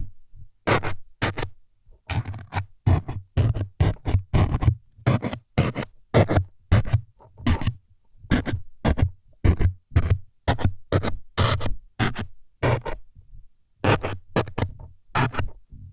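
Close-miked ASMR 'needle stabbing' sounds: short, scratchy jabs at about two a second, with a pause of about a second near the end.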